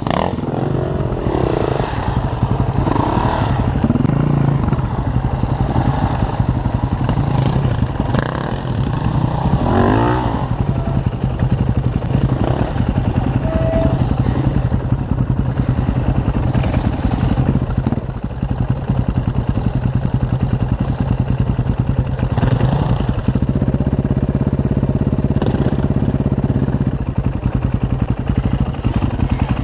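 Enduro dirt bike engine running under varying throttle, with several short revs rising and falling in pitch.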